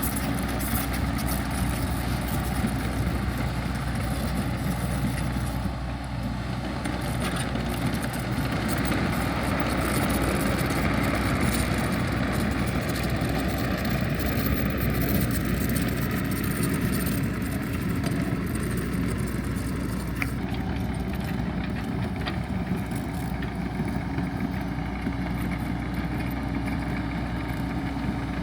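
An engine running steadily, a little louder for several seconds near the middle.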